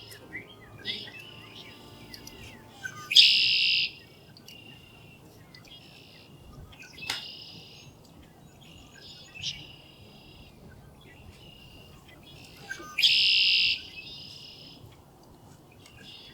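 Male red-winged blackbirds singing their buzzy trilled song over and over. Two loud close songs come about ten seconds apart, with quieter songs in between. A single sharp click sounds about seven seconds in.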